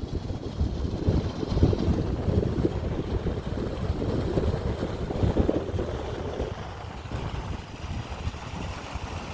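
Wind buffeting the microphone: a gusty, fluttering low rumble that eases a little after about six and a half seconds.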